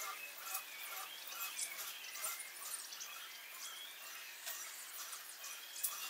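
Small birds chirping, short calls repeating about twice a second, with scattered sharp clicks.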